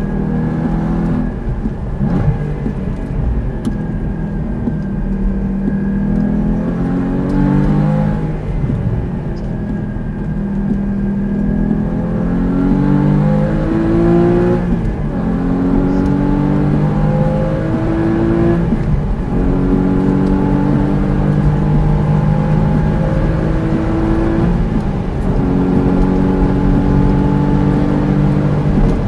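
Porsche sports car engine heard from inside the cabin under hard acceleration, climbing in pitch in each gear and dropping back at several quick upshifts.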